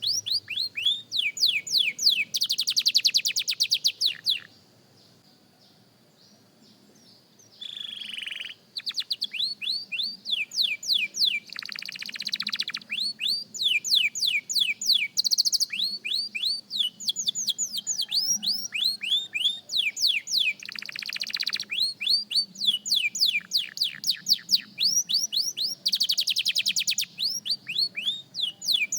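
Young canary singing in rolls of rapidly repeated, falling notes, one run after another, with a pause of about three seconds a few seconds in.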